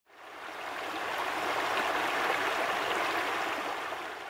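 Running river water, a steady rushing and burbling that fades in at the start and fades out near the end.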